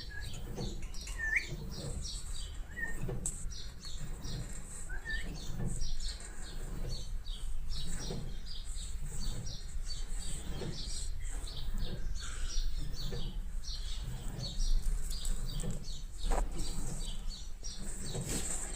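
Cockatiel chirping: a steady run of short, high chirps, with a few rising whistles in the first few seconds.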